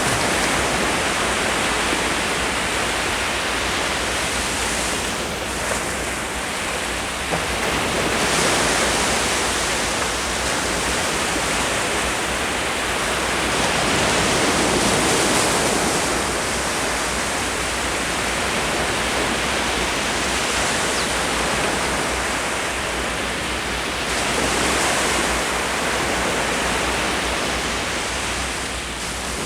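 Ocean surf: waves breaking and washing up the shore in a continuous rush that swells and eases every several seconds.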